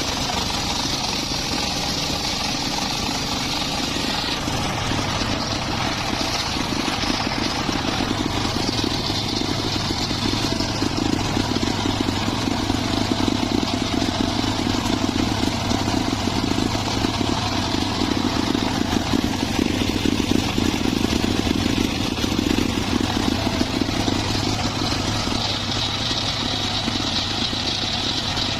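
Engine of a homemade circular saw rig running steadily, a little louder through the middle.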